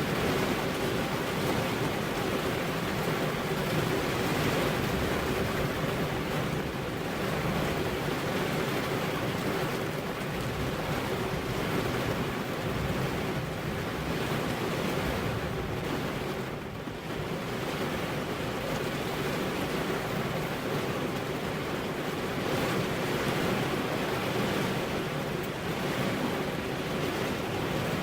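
Heavy rain falling steadily in a dense, even hiss, easing briefly about two-thirds of the way through.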